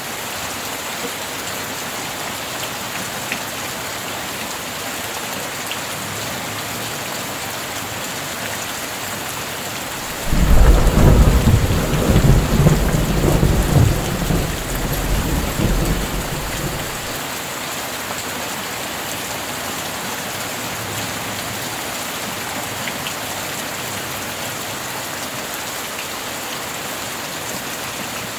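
Steady rain, with a sudden clap of thunder about ten seconds in that rumbles on for six or seven seconds and dies away.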